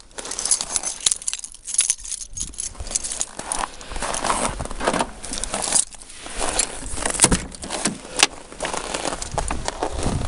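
Irregular rustling and handling noise with scattered sharp clicks and knocks.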